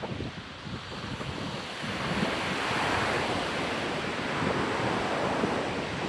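Ocean surf washing onto a sandy beach, one wave's wash swelling about two seconds in and easing off, with wind buffeting the microphone.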